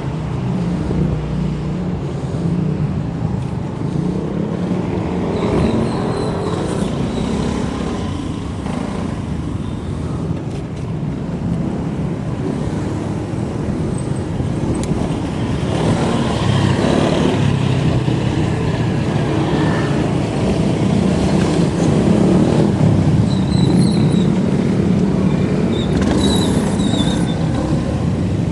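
Steady wind and road noise from riding a bike along a street, with motor traffic around it; it grows louder in the second half, as vehicles pass close.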